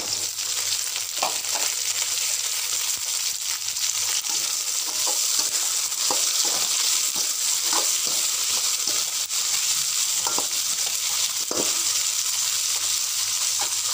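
Cut long beans frying in hot oil in a steel wok, a steady sizzle, with short scrapes of a metal spatula against the wok now and then as they are stirred.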